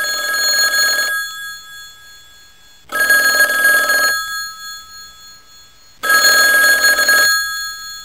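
Telephone ringing: three rings about three seconds apart, each lasting a little over a second and fading out afterwards.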